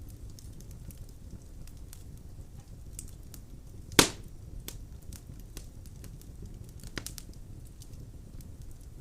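Wood fire burning in a fireplace: a steady low rumble of flames with scattered crackles, one loud pop from the burning logs about four seconds in and a smaller one about seven seconds in.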